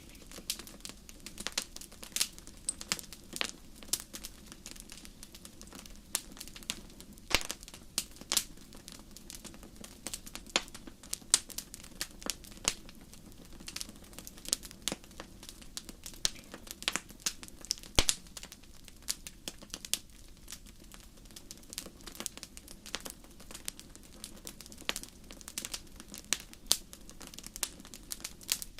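Wood fire crackling in a fireplace: dense, irregular sharp pops and snaps over a faint low hiss, with a few louder pops scattered throughout.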